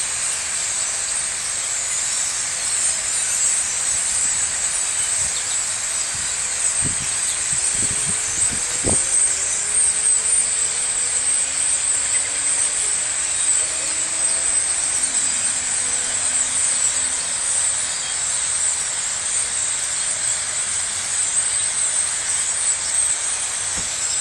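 A large roosting flock of birds in trees calling all at once: a dense, steady wall of high chatter. Through the middle a faint engine hum rises slowly in pitch.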